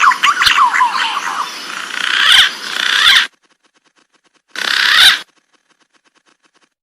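Green pigeon (punai) calls used as a trapping lure: many whistled notes gliding up and down over a hiss, which cut off abruptly about three seconds in, followed by one more short burst of calls around five seconds in.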